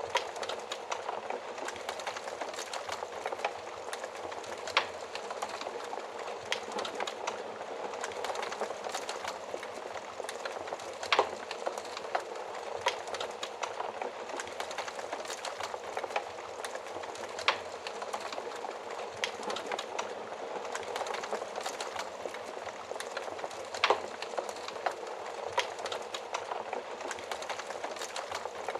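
Wood fire burning in an oven fireplace: a steady hiss and rustle of flames with constant small crackles and occasional louder sharp pops, about one every few seconds.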